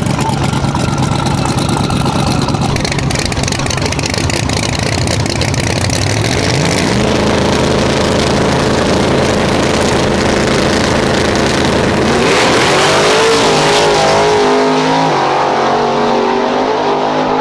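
Race car engine running loudly, its pitch climbing about six seconds in, holding, then climbing again about twelve seconds in to a higher, wavering note as it revs up.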